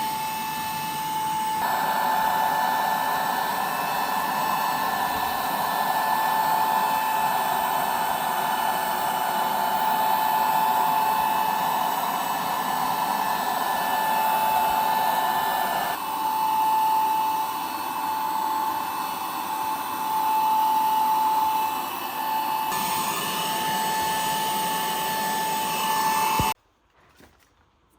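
A power tool running steadily with a high, even whine over a hiss, changing abruptly in level a few times and stopping suddenly near the end.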